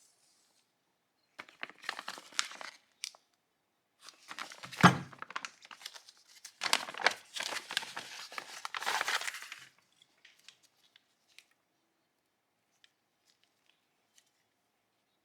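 Rustling, crinkling and tearing of material being handled, in two spells, with one sharp knock about five seconds in; a few faint clicks follow.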